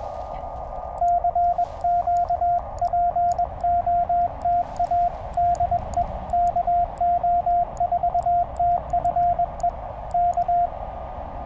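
Morse code from a Penntek TR-35 QRP transceiver: a single steady tone keyed in dots and dashes for about ten seconds as CW is sent on the paddles, starting about a second in. Before and after the keying, the radio's narrow CW filter passes band hiss from the receiver.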